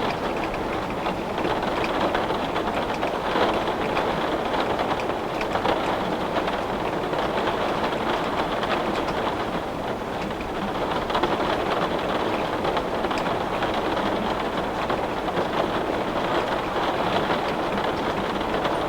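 Heavy rain beating steadily on a window pane, a dense, even patter with fine drop impacts throughout.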